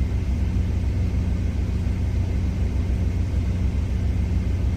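Steady low rumble of an idling truck's engine, running evenly without change.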